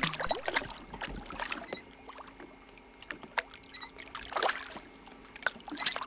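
Irregular knocks and clatter in a small fishing boat, cutting off suddenly at the end.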